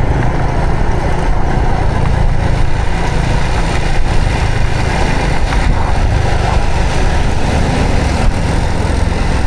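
Honda Supra X 125 FI motorcycle's single-cylinder four-stroke engine running steadily.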